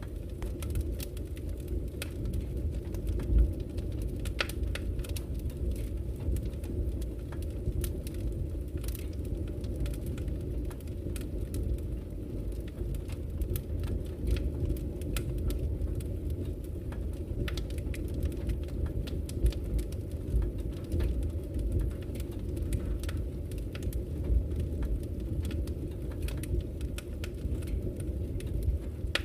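Wood fire burning in a fireplace: a steady low rumble of flames with irregular crackles and pops from the burning logs throughout.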